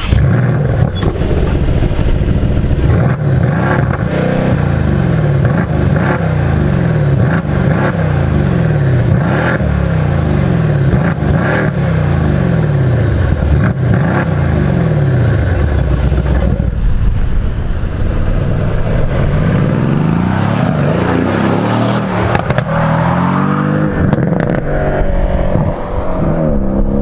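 Mercedes-AMG C63 Coupe's 4.0-litre twin-turbo V8 running hard, its pitch repeatedly rising and dropping, with revs swinging up and down in the last few seconds.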